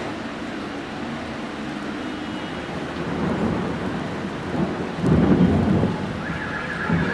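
Heavy rain during a thunderstorm, a steady hiss, with low rumbling surges about three seconds in and a louder one about five seconds in. A high electronic tone starts near the end.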